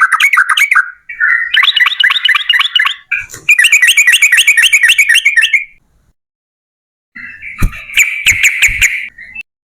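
Yellow-vented bulbul (trucukan) singing its rapid, rolling chatter: fast strings of bubbling notes in several long phrases. A silent pause comes just past the middle, and a few low thumps sound under the last phrase.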